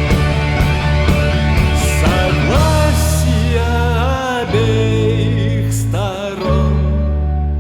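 Rock music: a band playing, with steady drum hits that stop about three seconds in, then held chords and sliding melody notes that begin to fade near the end.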